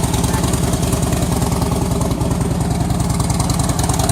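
Harley-Davidson Heritage Softail trike's 88-cubic-inch V-twin engine idling steadily, with an even, rapid exhaust pulse.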